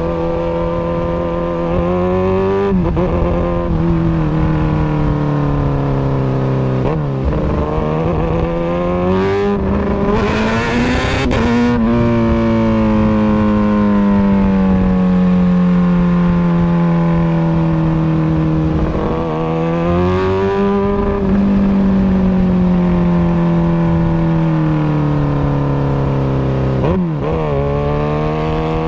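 Kawasaki Ninja ZX-6R 636's inline-four engine, fitted with an Austin Racing exhaust, running with its pitch slowly rising and falling and changing abruptly several times, as at gear changes. A brief rushing hiss comes about ten seconds in.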